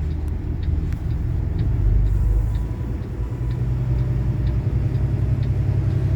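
Engine and road rumble of a truck heard from inside the moving cab, steady and low, with a faint regular tick about twice a second.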